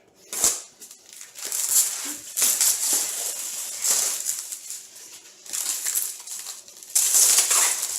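Packaging rustling and crinkling in irregular bursts as a printer kit's box is unpacked by hand, with the loudest stretch near the end.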